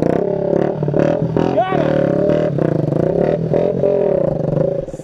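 Small motorcycle engine revved hard and held high, its pitch wavering up and down, with short sharp pops over it.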